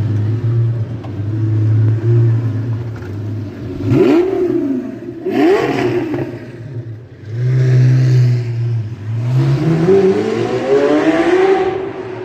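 Lamborghini supercar engine idling, then blipped twice in quick, sharp revs about four and five seconds in. After a short idle it revs up in one long rising pull as the car accelerates away.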